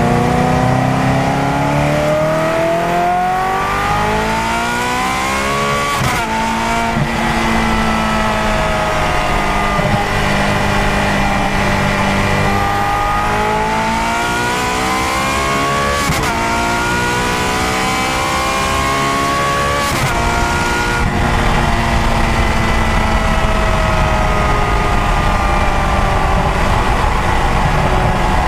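Ferrari F430's 4.3-litre flat-plane-crank V8, breathing through Fabspeed headers and the Ferrari sports exhaust, accelerating hard through the gears. The note climbs, then drops sharply with a crack at each of three F1 paddle upshifts, and settles to a steadier, slowly falling note near the end.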